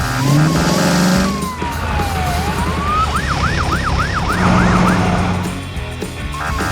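Cartoon siren sound effect sweeping quickly up and down, about seven times in two seconds. Before it come a few short beeping tones, a rising low whine and a long tone that falls and then rises. Light background music plays throughout.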